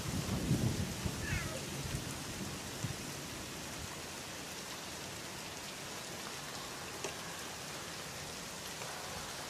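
Heavy rain falling steadily, an even hiss, with the tail of a thunder rumble dying away in the first second or two.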